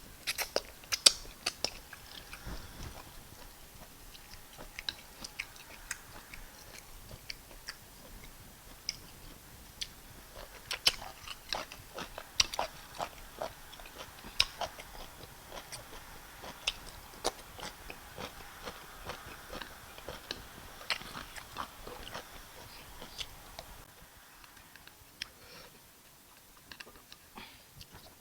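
Close-miked mouth sounds of a person eating fufu and bitter leaf soup: chewing with wet lip smacks and sharp mouth clicks throughout, thinning out in the last few seconds.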